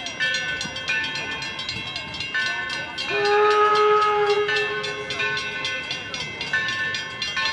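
Steam locomotive whistle blown once for about a second and a half, a steady pitched note that is the loudest sound here. Underneath, the train runs steadily with repeated clicking and thin high steady tones.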